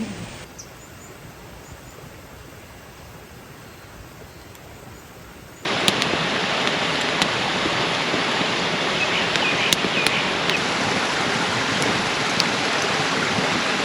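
Steady rushing of a mountain stream, faint at first and then much louder from an abrupt jump about five and a half seconds in, with a few sharp crackles.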